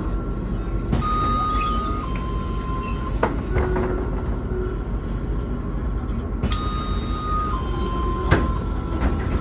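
Interior of a MAZ-216 city bus: a steady low engine and road rumble, with a two-note descending electronic beep sounding twice, about a second in and again past the middle, and a couple of sharp clicks.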